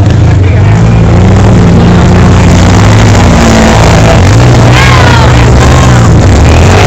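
Engine running loud and steady, its low pitch shifting a little in steps, with a brief voice heard about five seconds in.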